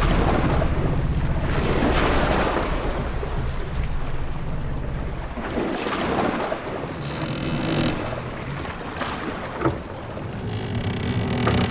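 Sea waves washing and swelling around a sailing ship, with low groans and higher creaks from the ship itself, and a short sharp knock about ten seconds in.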